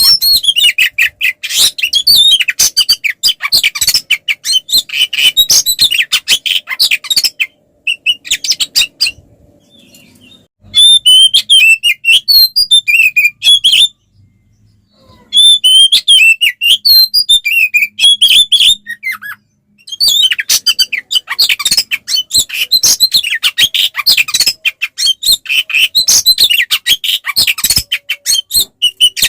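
Oriental magpie-robin (kacer) singing its fast, aggressive fighting song: dense runs of rapid, high-pitched chirps and harsh notes. The song breaks off a few times in the middle for a second or two and then resumes.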